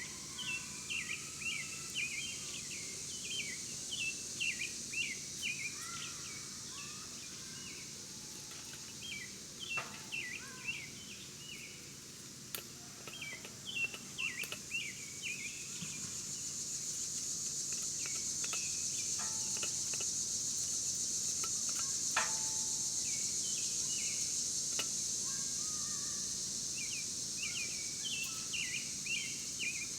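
Small birds chirping in quick clusters over a steady high insect drone, which swells for several seconds in the middle. A couple of sharp clicks.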